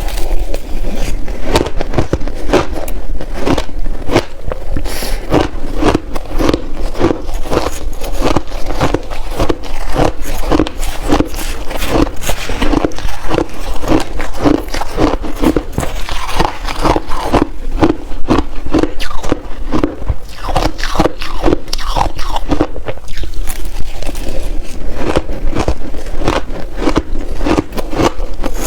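Shaved ice being crunched between the teeth in big bites, a fast run of crisp crunches and scrapes that keeps going without a break.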